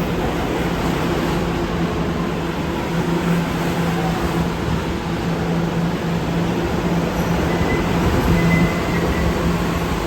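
An R211 New York City subway train's steady running noise, with a constant low hum and no sharp events.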